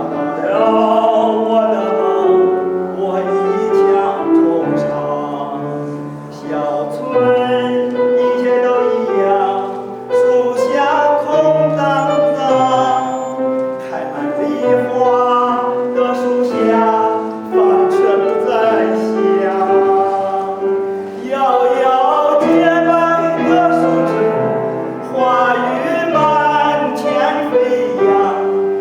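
Classical-style singing of a song, held notes with vibrato, over instrumental accompaniment.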